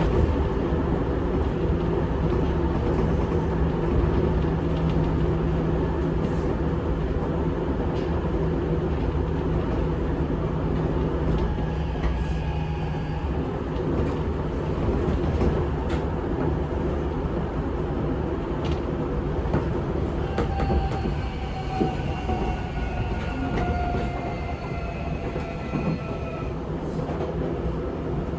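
Seibu 6000 series electric train running, heard from inside the car: a steady rumble from the wheels and running gear, with occasional clicks. From about two-thirds of the way through, the Mitsubishi SiC-VVVF motor drive adds a faint whine in several tones that slowly falls in pitch.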